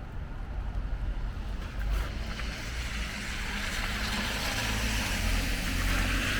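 A car approaching on a wet road, the hiss of its tyres growing louder over the last few seconds, over a steady low rumble.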